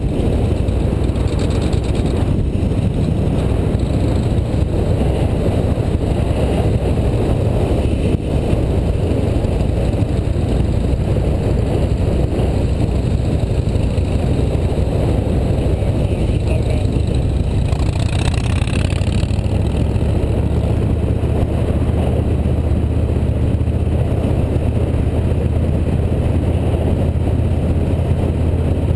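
Motorcycle engine running steadily at cruising speed, with wind and road noise. A brief higher swish comes through about two-thirds of the way in.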